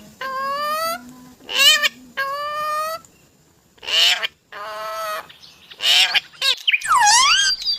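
Pet parrot calling in a string of about seven short, clear pitched calls, some gliding in pitch. Near the end one call swoops down and back up.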